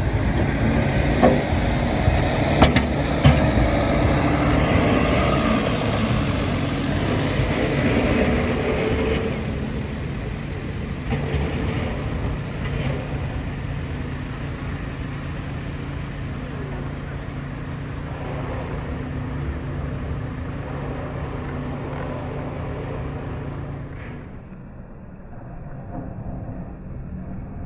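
Road traffic: a motor vehicle's engine and road noise, with a few sharp knocks in the first few seconds. It is loudest over the first ten seconds, then eases, and drops again near the end.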